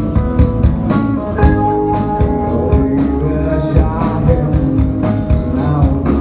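A rock band playing, with a regular drum beat under held bass and instrument notes and a singing voice.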